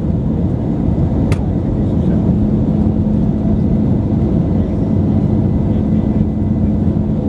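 Steady engine and airflow noise inside the cabin of an Airbus A320-214 with CFM56-5B engines, with a low steady hum and one sharp click about a second in.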